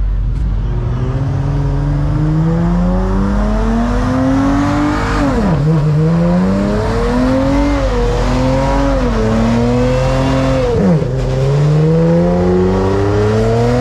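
Car engine accelerating hard through the gears: its pitch climbs steadily for several seconds, then drops sharply at a shift about five seconds in and again about eleven seconds in, before climbing once more.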